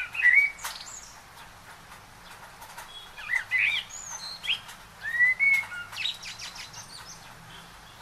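Birds chirping: short, rising and falling whistled calls in clusters near the start, around three to four seconds in, and again around five seconds in.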